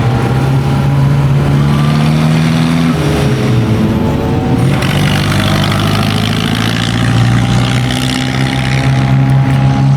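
A car engine running at low, fairly steady revs, its pitch drifting slightly, with more rushing noise joining about halfway through.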